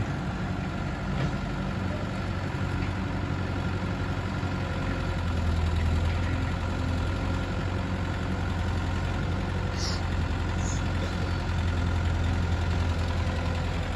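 Diesel engine running steadily at a low, even pitch.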